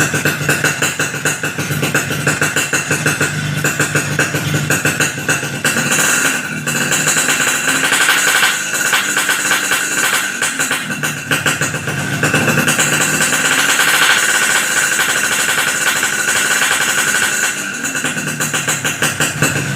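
Motorcycle engine running through an Alteck C17 aftermarket exhaust with a 'Boban Nuklir' baffle filter: a loud, rapid, steady exhaust note that swells louder a few times.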